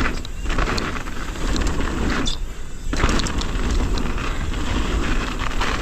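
Mountain bike ridden fast over frozen, icy dirt: tyre roar, chain and suspension rattle, and wind buffeting the helmet microphone, with the rear damper noisy in the freezing cold. A little over two seconds in the tyre noise drops away for about half a second, as over a jump, and comes back with a knock on landing.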